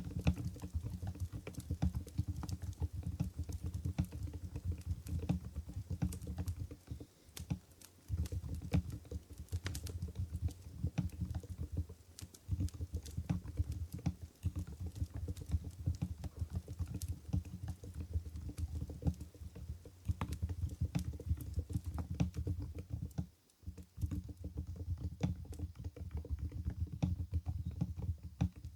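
Continuous fast typing on an Mstone Groove GV10 keyboard with silent Coral 45 g switches: soft, muted keystrokes in a dense stream, with brief pauses about seven seconds in and again near twenty-three seconds.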